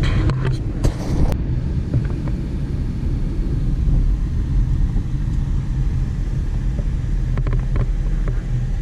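Steady rumble of a car driving, heard from inside the cabin, mostly deep road and engine noise. A few short clicks come about a second in and again near the end.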